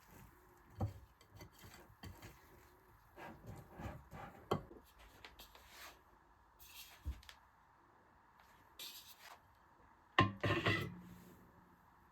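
Objects being handled: scattered light knocks and rubbing, with a louder clatter about ten seconds in.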